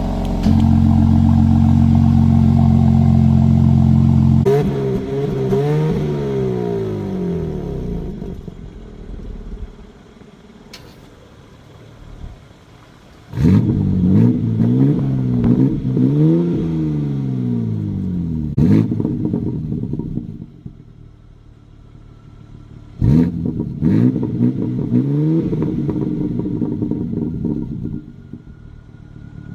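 BMW S58 twin-turbo inline-six in a G80 M3 / G82 M4 on the stock exhaust. It starts abruptly and holds a steady high idle for about four seconds. It is then blipped in three bursts of quick revs that rise and fall back, with idling between, and a few sharp cracks from the exhaust among the revs.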